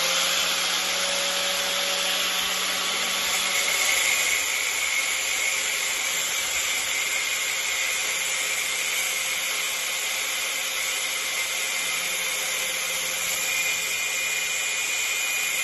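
A handheld electric power tool switched on just before and running steadily at speed, a constant whirring hiss with a faint whine that rises as the motor spins up at the start.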